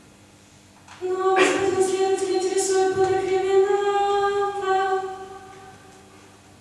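Unaccompanied voices singing one long held note, coming in about a second in and fading out after about four seconds.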